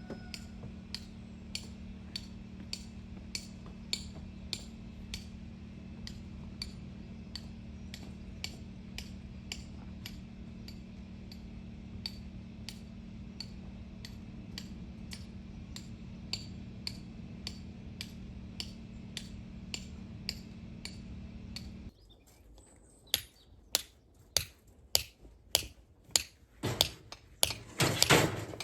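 Hammer tapping at a steady pace, about two strikes a second, over a steady low hum. Some 22 seconds in the hum stops and the strikes turn louder and less even, with a loud scraping burst just before the end.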